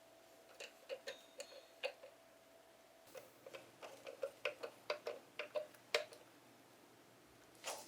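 A series of light clicks and taps, about two or three a second, from tools and parts being fitted while the bench grinder is put back together, with a louder rustle near the end.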